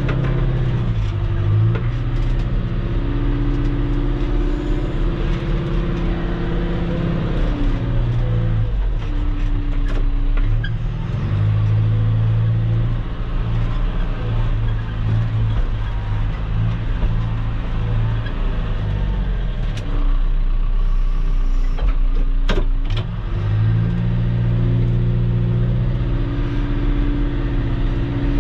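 Diesel engine of a heavy machine spreading gravel, running steadily. Its revs dip and recover a few times under load: about a second in, around ten seconds, and for several seconds near the end. A couple of sharp metal clanks come shortly before the end.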